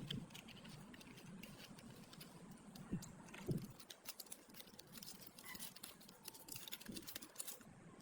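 Quiet workshop handling: a scattered run of small sharp clicks and light taps, growing busier in the second half, with a few soft knocks about three seconds in and again near the end.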